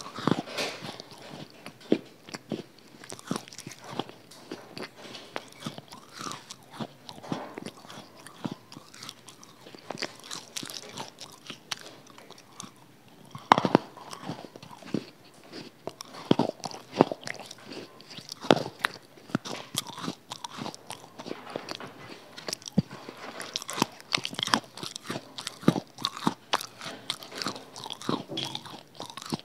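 Close-miked biting and chewing of small hard, crunchy balls: a steady run of irregular sharp crunches, a few louder bites in the middle.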